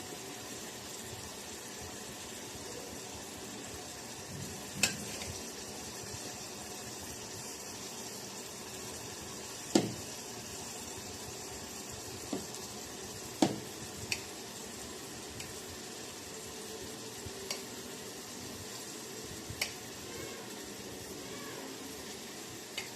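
Food frying in a pan with a steady sizzle, and sharp clinks of a utensil against the pan every few seconds as it is stirred.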